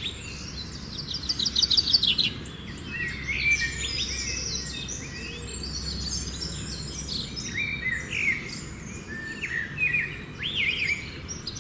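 Several birds chirping and calling at once, a busy chorus of quick trills and short rising and falling notes, over a steady low rumble. It cuts off suddenly at the end.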